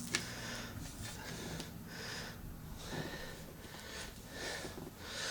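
Soft breathing and sniffing close to the microphone with faint handling noises and a light click just after the start; the vacuum cleaner is switched off.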